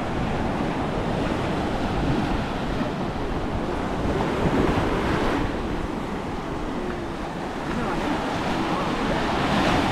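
Small waves breaking and foam washing up a sandy beach, the surf swelling louder about halfway through and again near the end. Wind buffets the microphone with a low rumble.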